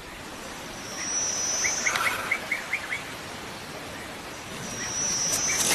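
Woodland ambience with a run of about six short chirps about two seconds in, and a high, thin steady buzz heard twice.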